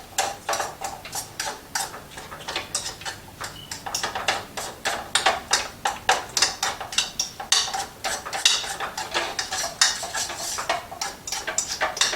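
A fork mashing boiled potatoes in a pan: quick, irregular clinks and scrapes of the fork against the pan, several a second.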